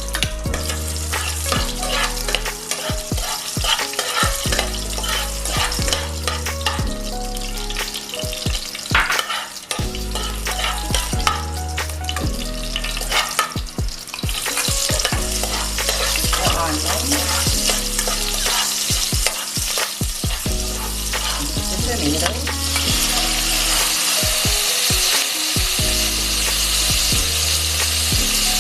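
Ingredients sautéing in hot oil in a pan: a steady sizzle, with a spatula scraping and clicking against the pan as they are stirred. The sizzle grows louder about halfway through.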